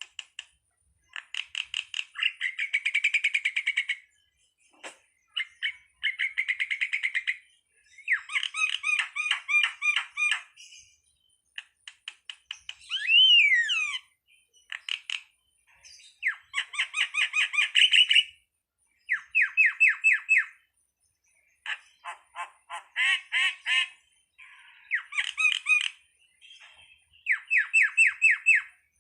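Jalak (starling) song: bursts of rapid, evenly repeated chattering notes, each burst a second or two long with short gaps between, and one loud whistle that rises and falls about 13 seconds in.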